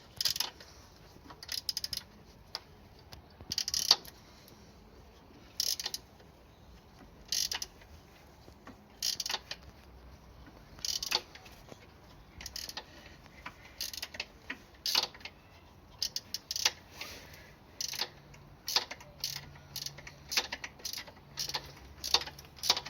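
Short bursts of metallic ratcheting clicks every second or two, coming faster in the second half, from a ratcheting hand tool being worked in short strokes during a motorcycle engine fit.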